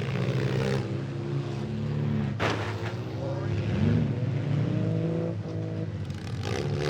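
Engines of several demolition-derby minivans, mini trucks and SUVs running and revving, their pitch rising and falling. A single sharp bang about two and a half seconds in.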